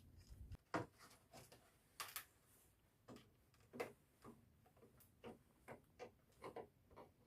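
Faint, irregular clicks and light taps of hand work: a plywood blade being fitted and fastened to a pitchfork with wire and screws. About fifteen short ticks, unevenly spaced, the sharpest less than a second in and near the four-second mark.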